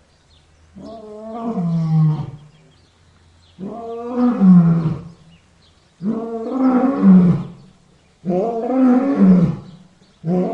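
Lion roaring: five loud roars in a row, each about a second and a half long, with short pauses between them.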